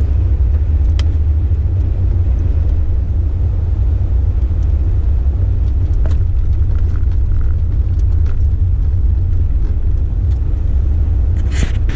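Steady low rumble of a four-wheel-drive vehicle on the move, heard from inside its cabin, with a few faint clicks.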